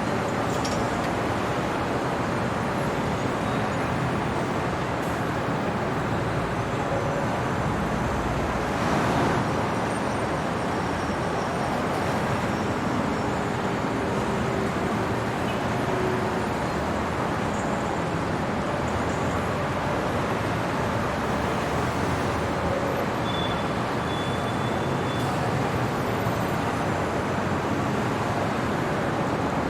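Steady city traffic noise: a dense wash of passing vehicles and tyres on the road, swelling slightly about a third of the way in as a vehicle passes closer.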